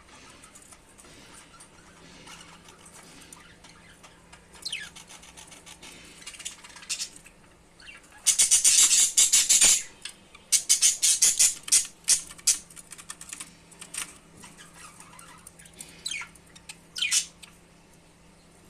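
Budgerigars chirping and chattering: scattered short chirps, then two loud spells of fast, dense high chatter in the middle, and a few quick falling chirps near the end.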